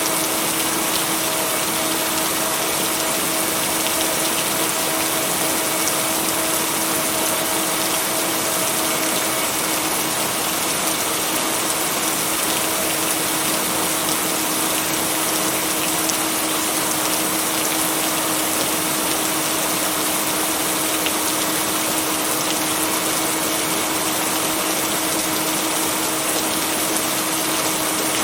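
Steady, even rain noise with no thunder claps, with a faint steady tone running underneath it.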